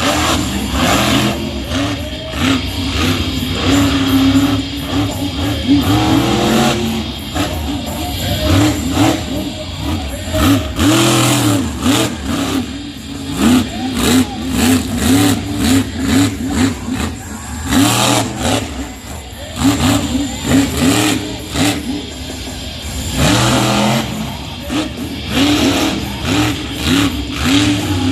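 Monster truck engine revving hard, its pitch climbing and dropping again and again, with music playing over the arena's loudspeakers.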